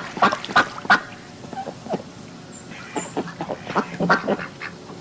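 Ducks quacking in short, sharp calls: a burst of quacks in the first second, a quieter stretch, then another run of quacks from about three seconds in.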